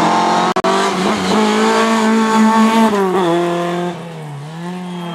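Lada rally car engine revving hard through a corner with tyres squealing. The revs hold high, fall away about three seconds in, then pick up again near the end; the sound cuts out twice for an instant just after the start.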